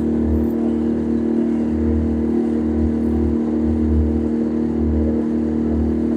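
Small petrol boat motor running steadily under way: an even hum with a low throb that swells and fades about once a second.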